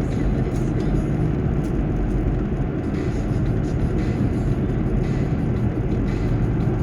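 Steady road and tyre noise of a car driving along a highway, a low even rumble heard from inside the cabin.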